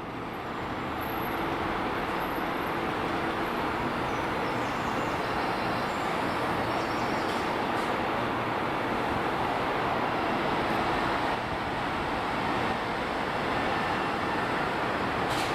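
Jet airliner engine noise, a steady rush that builds over the first couple of seconds and then holds level.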